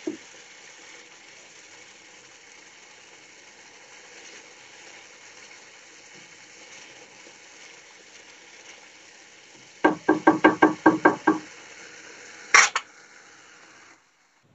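Masala frying in oil in a pan, sizzling steadily as it is stirred with a wooden spoon; the masala is cooking down and starting to release its oil. Near the end comes a quick run of about ten knocks, then one sharper knock.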